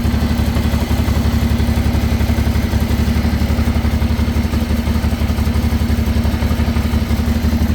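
1989 Honda Transalp 600V's V-twin engine idling steadily with an even beat.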